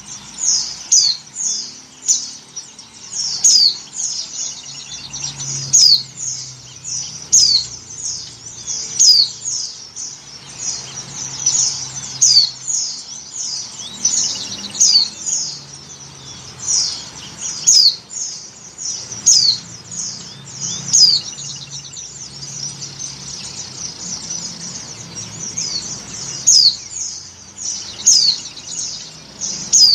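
White-eye (pleci) calling in a continuous stream of short, high, down-slurred chirps, several a second. It is the call of a female in breeding condition calling for a male.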